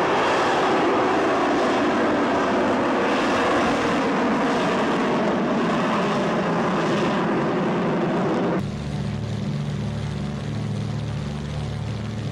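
Aircraft engine noise: a loud, broad jet-like rush that cuts off abruptly about eight and a half seconds in. A steady low propeller-engine drone with a pulsing beat follows it.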